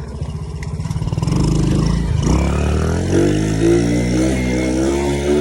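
Motorcycle engine chugging at low revs, then picking up from about a second in, its pitch rising and then holding steady as the bike gets under way.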